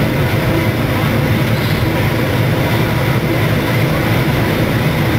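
Train carriage running along the track at speed: a steady rumble of wheels on rails with rushing noise, heard from an open window.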